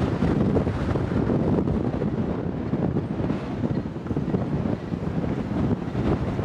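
Strong wind buffeting the microphone: a low, noisy rush that wavers in level, with no clear engine tone.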